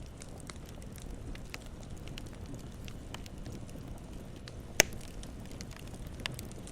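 Campfire burning with scattered crackles over a low steady rumble of flames, and one sharp loud pop about five seconds in, followed by a smaller pop near the end.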